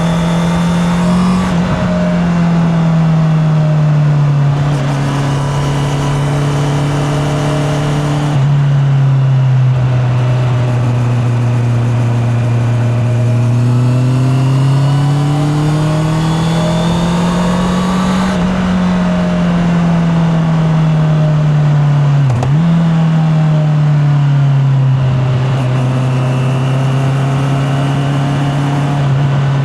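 Honda CB650R inline-four engine running on the road, its note stepping down at a gear change about two seconds in. The revs then climb steadily for several seconds and fall away again, with a brief dip about two-thirds through. It is heard through a microphone in the rider's back pocket.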